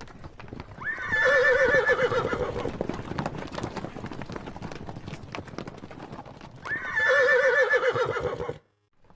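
A horse whinnying twice, each a long quavering call, over hooves clip-clopping; the sound cuts off suddenly near the end.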